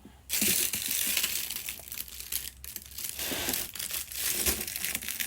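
Crinkling and crackling of something being squeezed and handled, a dense run of irregular crackles that starts suddenly just after the start and keeps going.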